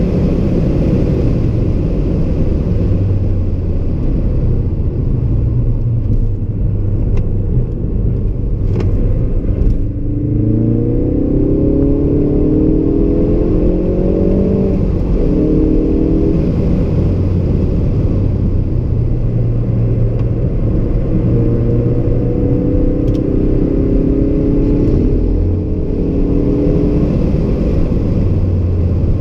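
Ford Focus RS mk3's turbocharged 2.3-litre four-cylinder engine under hard track driving, heard from inside the cabin over a heavy low road rumble. The engine note climbs in pitch about ten seconds in and again past twenty seconds as the car accelerates through the gears.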